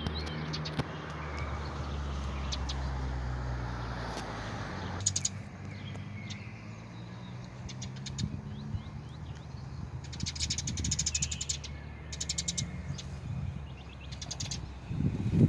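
Small birds chirping and giving rapid high trills, loudest in a long trill about two-thirds of the way in. A low steady rumble lies under the first few seconds, and a louder low burst comes at the very end.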